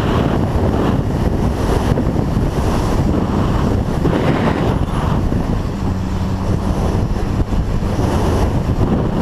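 Heavy wind rushing over the microphone of a motorcycle at riding speed, with a motorcycle engine running steadily underneath it, its hum a little clearer in the second half.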